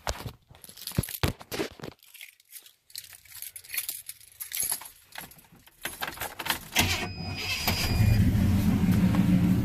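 Keys jangling and clicking, then about seven seconds in a pickup truck's engine is cranked and starts, settling into a steady idle.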